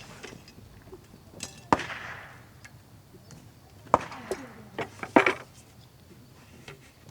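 Several sharp knocks and clacks, spaced a second or two apart, some with brief ringing after them.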